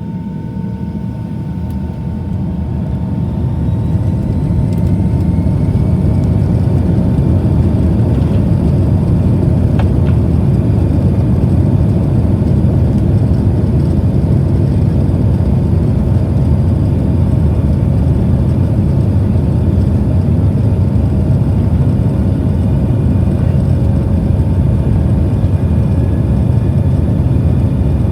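Airplane engines throttling up for takeoff: the noise rises over the first few seconds with a faint rising whine, then holds as a loud, steady rumble.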